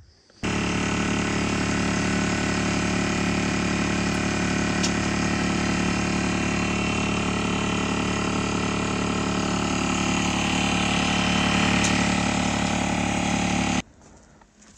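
A motor running steadily with an engine-like hum. It starts suddenly about half a second in and cuts off suddenly near the end.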